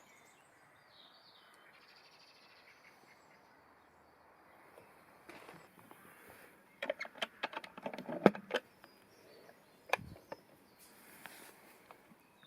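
A cluster of sharp clicks and knocks about seven seconds in, the loudest near eight seconds, then another knock with a dull thud about ten seconds in, over a faint outdoor background with birds chirping.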